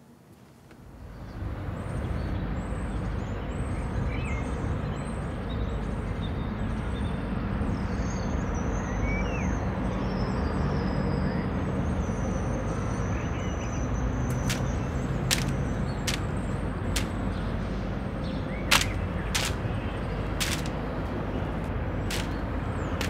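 Outdoor ambience: a steady low rumble like distant traffic, with faint bird chirps through the first half. From about halfway on there is a series of sharp clicks.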